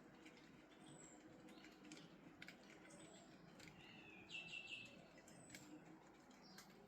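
Faint birdsong over low outdoor background noise: a short high falling call repeated about every two seconds, with a brief trill about halfway through.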